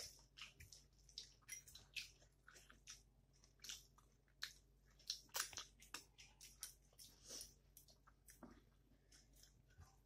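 Wet chewing and lip smacks of a person eating dal and potato curry by hand, with squishing as her fingers mix the food on the plate. The sounds are many short, faint smacks and clicks.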